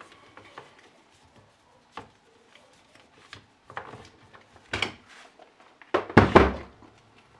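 Things being handled and set down on a workbench: scattered light knocks and clicks, then a louder clatter and thump about six seconds in.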